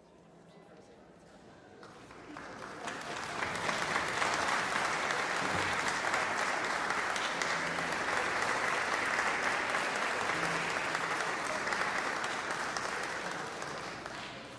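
Audience applauding in a concert hall: the clapping builds over the first few seconds, holds steady, then dies away near the end.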